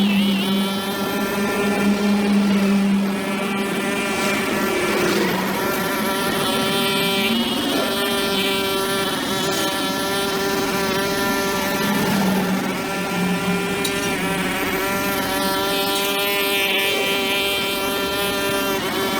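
Small engine of a brush cutter running steadily at high speed, its pitch dipping and wavering briefly a few times.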